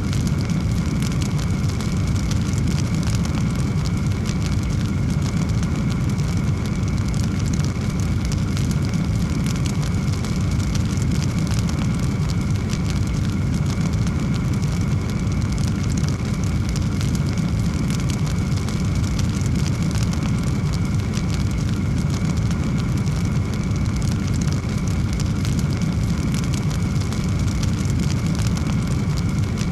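Log fire burning with a steady low roar and dense, continuous crackling.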